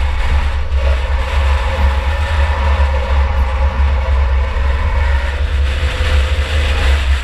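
2004 Chevy Impala enduro race car's engine running steadily under way, heard from inside the car: a heavy low rumble mixed with road and wind noise.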